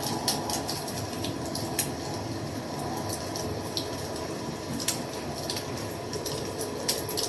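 Wood fire burning with a steady low rush, broken by sharp, irregular crackles and pops about once or twice a second.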